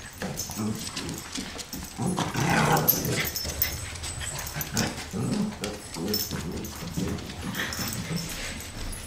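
Dogs making sounds, loudest about two to three seconds in, with short clicks scattered throughout.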